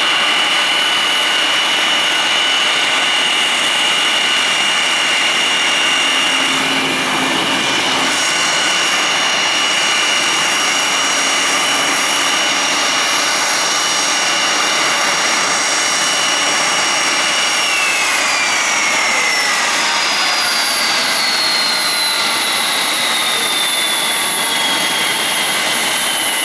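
Kawasaki C-1's JT8D turbofan engines running at idle with a loud roar and a high steady whine. About two-thirds of the way through, the whine starts falling slowly in pitch as an engine is shut down and spools down, while the roar goes on.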